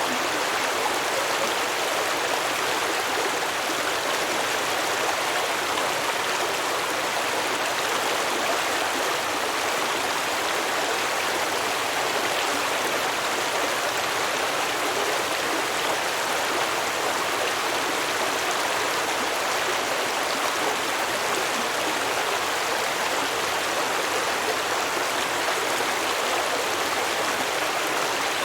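Stream water flowing and babbling over rocks, a steady even rush.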